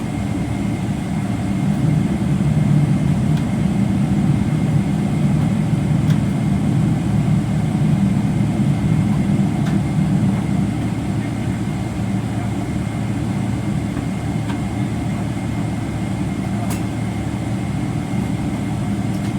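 Steady low hum of a Boeing 777-300ER's cabin with a faint high steady tone, heard from inside the cabin as the airliner reaches the gate after landing; a few faint clicks.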